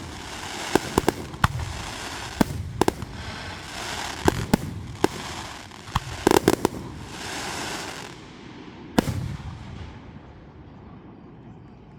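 Fireworks going off: a rapid series of sharp bangs with crackling between them, a dense cluster about six seconds in and a last loud bang about nine seconds in, then the crackle dies away.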